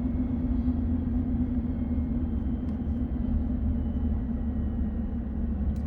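Car driving, a steady low rumble of engine and road noise with an even hum over it.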